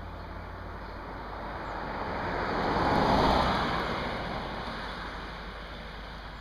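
A vehicle passing on the road, its engine and tyre noise swelling to a peak about three seconds in and fading away.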